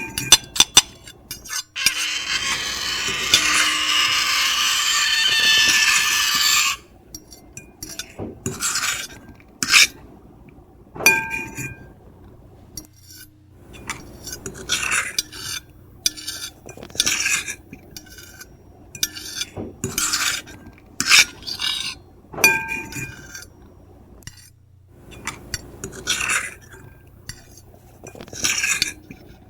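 Metal fork and knife scratching across a plate: one long continuous scrape lasting about five seconds near the start, then a run of short separate scrapes and clinks, a few of them ringing briefly.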